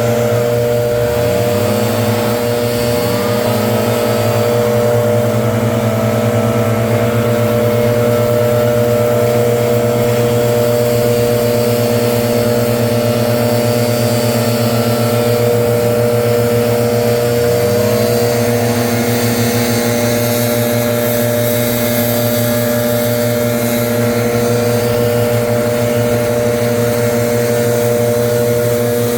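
Gas leaf blower running steadily at high throttle. Its engine pitch rises briefly a few times, about a second in, around three seconds, and twice more past the middle.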